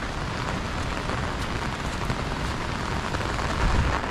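Heavy rain falling steadily, an even hiss, with a brief low rumble a little before the end.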